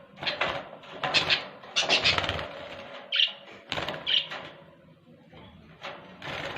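Budgerigars squawking and flapping their wings in a wire cage while being grabbed by hand, with irregular scuffling and rattling bursts and a few short high chirps.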